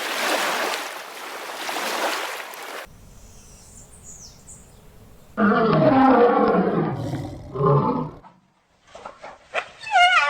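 A string of separate animal calls cut one after another: a rough roar for the first few seconds, then faint high chirps, then a loud, deep call lasting about three seconds. After a brief gap, a quavering, falling horse whinny begins near the end.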